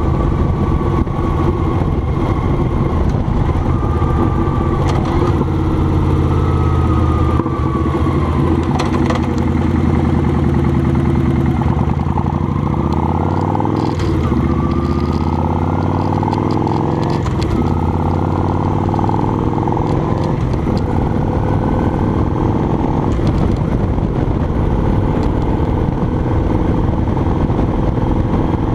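Motorcycle engine running as the bike is ridden, its pitch rising and falling repeatedly with the throttle and gear changes, picked up by a camera mounted on the bike.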